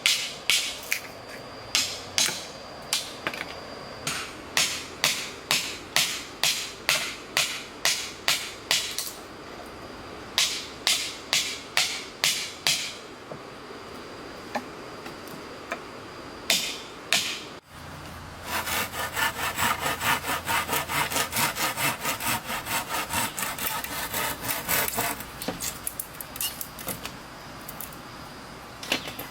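Hand saw cutting wood in steady back-and-forth strokes, about two a second. After a break and a cut, a faster, denser run of sawing strokes follows.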